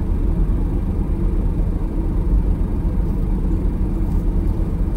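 Steady low rumble inside a car's cabin: the engine idling with the air conditioning blowing.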